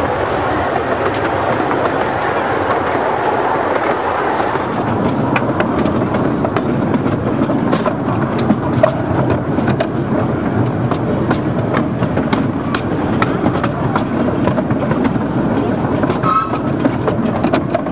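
Miniature railway train running on its track: a steady rumble as carriages pass close by, then from about five seconds in the clickety-clack of wheels over rail joints, with irregular sharp clicks.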